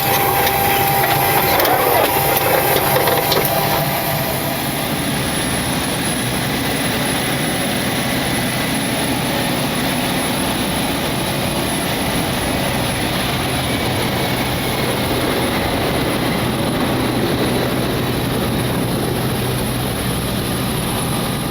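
Steady aircraft noise heard in a Boeing 727 cockpit: a constant rush with a low hum and a thin high whine.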